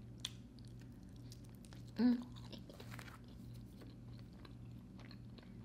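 Close-miked mouth sounds of a person biting and chewing a soft, cheesy slice of pizza topped with fettuccine Alfredo: small wet clicks and smacks over a steady low hum, with a brief vocal sound about two seconds in.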